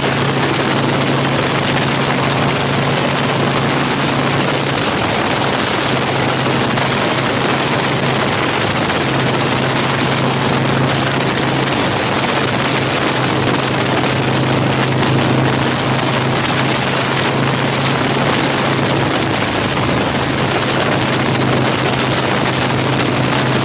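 Big Dog K9 chopper's V-twin engine at a steady highway cruise, a constant low hum under heavy wind rush on a bike-mounted camera microphone.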